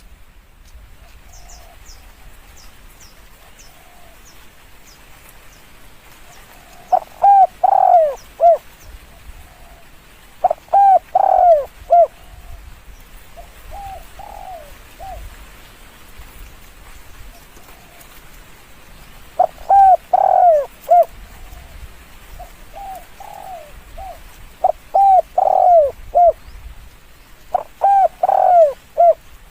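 Spotted dove cooing: five loud phrases of three or four low coos each, with fainter coos between them. A small bird's high, thin chirps sound in the first few seconds.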